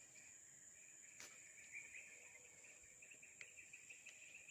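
Faint insect chirping: a steady, high-pitched buzz with a rapid, pulsing trill over it, and a couple of faint clicks.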